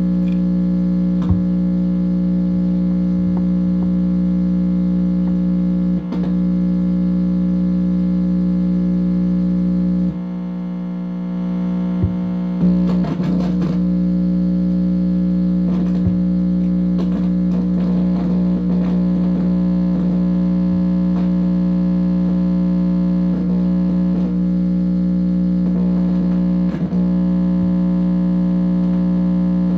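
Loud, steady electronic buzz from an amplified speaker, several steady tones stacked together, picked up as interference by a receiver or amplifier. It drops briefly about ten seconds in, then wavering, sliding squeals and clicks break through it in clusters.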